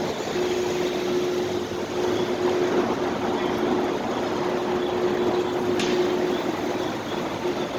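Steady supermarket car-park ambience: a broad rushing noise of ventilation and idling vehicles with a steady hum running through it, broken a few times, and a brief high squeak about six seconds in.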